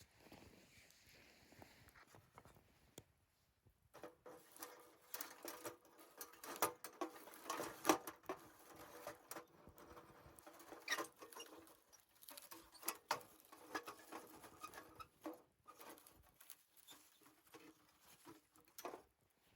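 Wood fire burning in a campfire stand, crackling and popping. There are a few pops at first, then a dense run of sharp crackles through the middle that thins out near the end.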